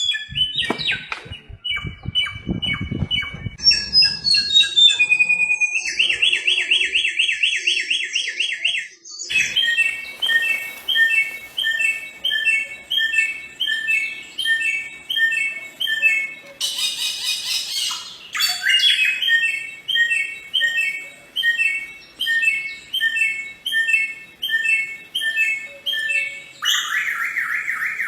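Bare-throated whistler (samyong), a noted mimic, singing a varied string of phrases: short repeated whistles and quick trills at first, then from about ten seconds in a long series of similar rapid phrases repeated roughly once a second. A brief harsh burst comes about two-thirds of the way through, and a buzzy trill starts near the end.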